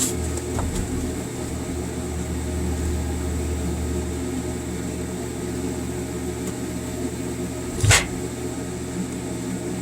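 Steady electrical hum of an idling stick (arc) welding machine, with one short knock about eight seconds in.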